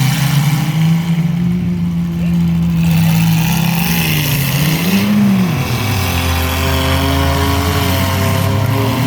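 Mini truck engine running hard, its pitch holding steady, then rising and falling once about five seconds in before settling to a lower, steady drone.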